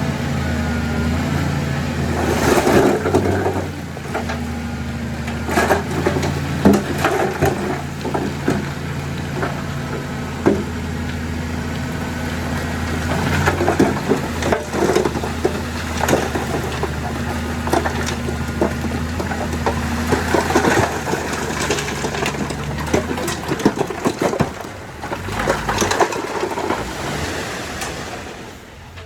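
Bulldozer's diesel engine running steadily under load, with repeated knocks, clanks and scraping as the machine pushes dirt. The engine sound fades away near the end.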